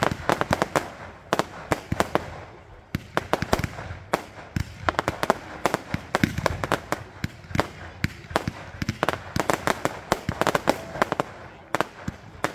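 Fireworks going off: many sharp bangs and crackling reports in quick, irregular succession, several a second.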